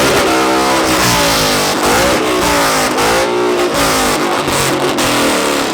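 Engines of modified cars revved hard through loud exhausts. The pitch climbs and drops several times in quick blips.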